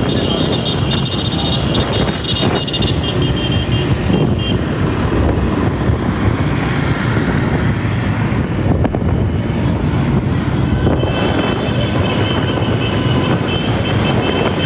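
Several motorcycle engines running together as a group of bikes rides along, a loud, steady engine din.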